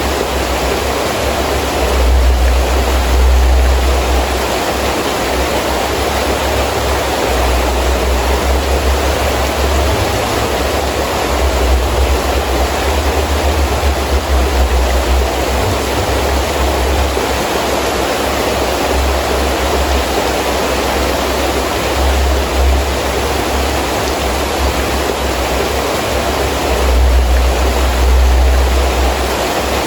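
Heavy rain falling steadily, with wind gusting in bouts that bring a low rumble several times.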